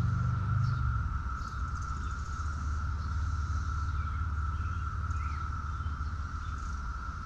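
Outdoor farmyard ambience: a steady high-pitched hum throughout, a low rumble that eases about a second in, and a few faint bird chirps.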